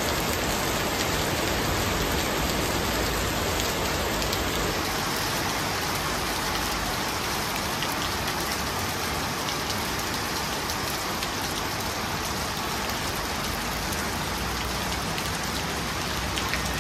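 Heavy rain falling steadily on a wet street and the surfaces around it: an even hiss with scattered drop ticks.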